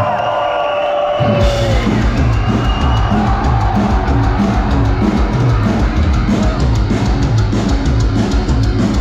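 Loud live metalcore band playing, heavy drums, bass and distorted guitars crashing in about a second and a half in over a crowd's held shout, then pounding on in a steady rhythm, heard from within the audience.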